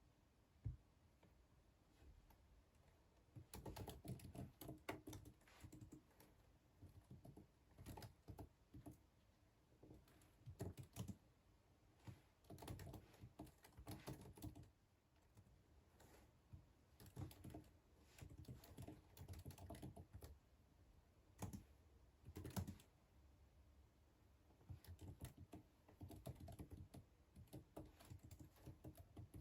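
Quiet typing on a computer keyboard: short runs of rapid keystrokes broken by pauses of a second or two.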